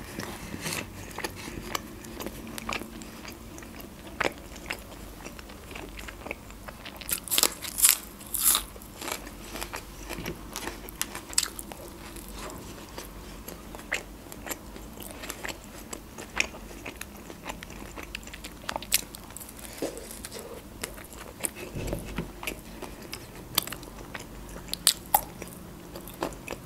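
Close-miked crunching bites and chewing of Turkish pide with a crisp baked crust, in irregular sharp crunches. The loudest cluster of crunches comes about seven to eight seconds in.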